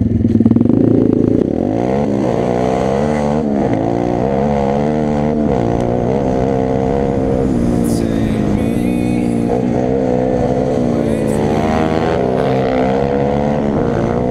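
A 125 cc pit bike engine revving. It is held high for about the first second and a half, drops, then keeps rising and falling in pitch as the throttle is worked.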